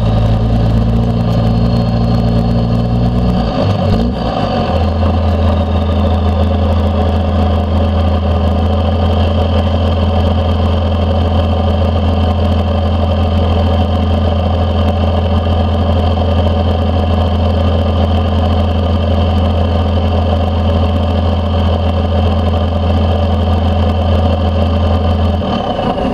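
1992 Dodge D350's 12-valve Cummins turbo diesel, straight-piped through a 5-inch stack, running on the road with a steady low drone. The engine note changes about four seconds in. A high turbo whistle rises and falls early, then holds as a steady tone and drops away at the very end.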